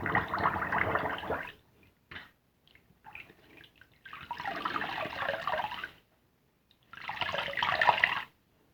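A soapy car-wash sponge being squeezed and worked into a lather, making wet, crackling squishes. They come in three bursts, at the start, in the middle and near the end, with a few small squelches between.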